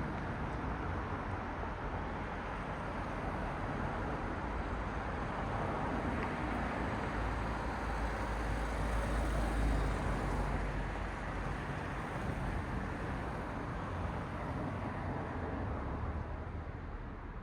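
Traffic on a road: cars passing with a steady tyre-and-engine rush. One vehicle swells to the loudest point about nine to ten seconds in, then fades away.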